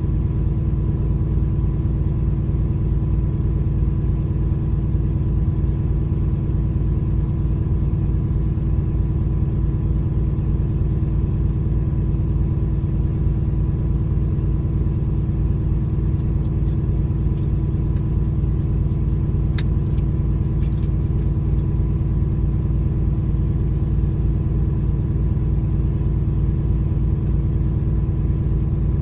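Diesel truck engine running steadily while parked during a forced regeneration of its diesel particulate filter. A few light clicks are heard about two-thirds of the way through.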